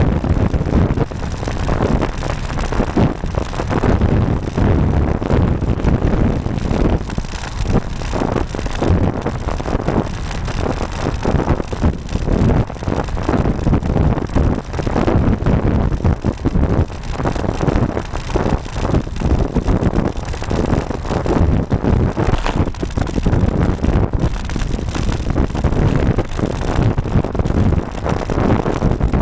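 Wind buffeting the microphone of a bike-mounted camera while the road bike is ridden: a loud, gusty rumble that flutters constantly.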